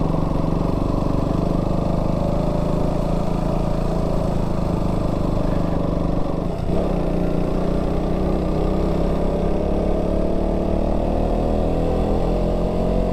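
Single-cylinder motorcycle engine running under way at a steady speed. There is a brief dip in the engine note about halfway through, then the pitch climbs slowly as the bike picks up speed.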